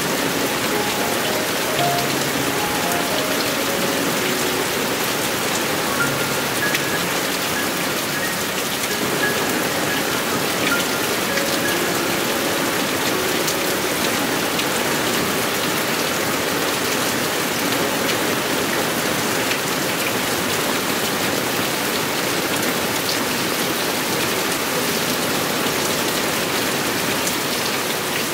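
Heavy monsoon rain falling steadily, a dense, even hiss of rain on surfaces.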